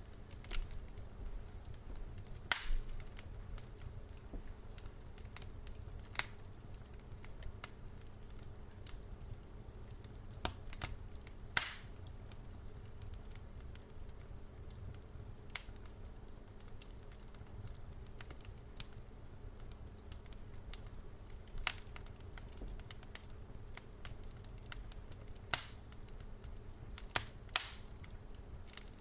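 Wood fire crackling in a fireplace: irregular sharp pops and snaps from the burning logs, a few seconds apart, over a low steady rumble of the flames.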